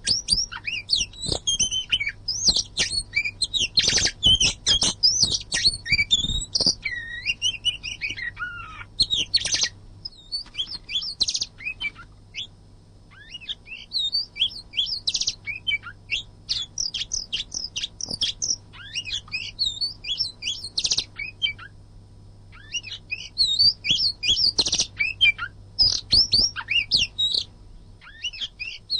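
Oriental magpie-robin (kacer) singing a fast, dense run of varied whistles and chirps, broken by two short pauses.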